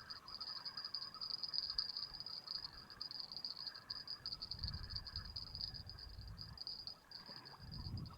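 A steady, rapidly pulsing high-pitched insect trill, with fainter broken calls lower down. Wind buffets the microphone in low rumbles about halfway through and again near the end.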